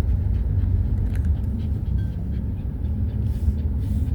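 Steady low road and engine rumble inside a slowly moving car, with a dog panting.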